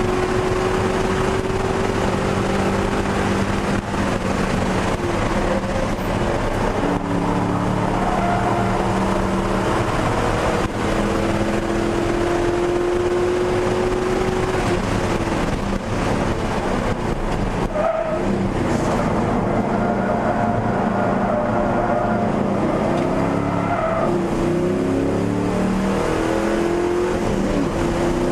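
1999 Ford Mustang GT's 4.6-litre V8 driven hard on track, heard from inside the cabin. The engine pitch climbs slowly through each gear and drops at the shifts, with quick pitch changes near the end.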